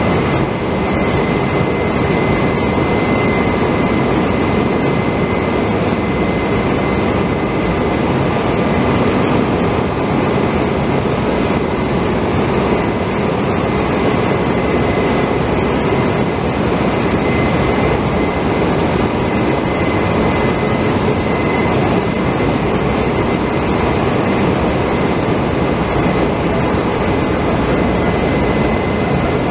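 Steady, loud machinery drone with a constant high whine running through it, unchanging throughout.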